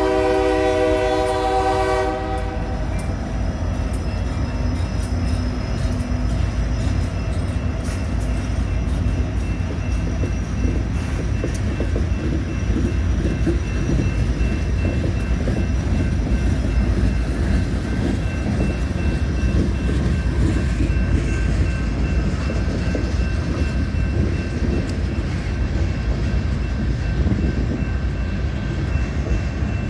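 Diesel freight locomotive horn sounding, cutting off about two seconds in. It is followed by the steady low rumble of a manifest freight train's cars rolling past.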